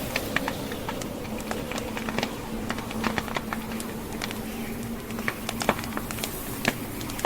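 Log fire crackling, with irregular sharp pops and snaps over the steady rush of a blizzard wind.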